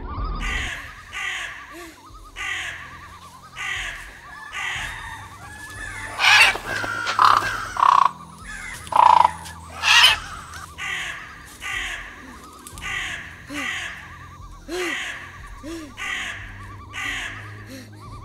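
Crows cawing over and over, a harsh call about every two-thirds of a second. A few much louder, sharper cries stand out between about six and ten seconds in.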